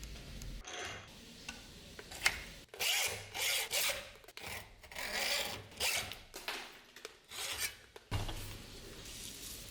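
A hand tool rasping in a run of short, uneven strokes, with a brief pause about four seconds in; the strokes stop about eight seconds in.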